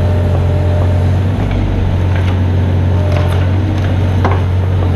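Mini excavator's diesel engine running steadily, with several short knocks and clatters in the second half.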